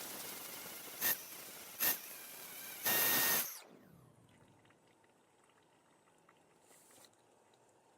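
Four short hissing bursts, about a second apart, the fourth longer and louder than the rest.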